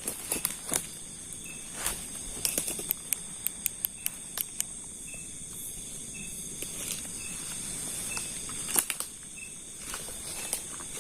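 Night insects, crickets among them, trilling steadily in high, even tones, over scattered crackling clicks of footsteps moving through undergrowth. In the middle a short faint chirp repeats about once a second.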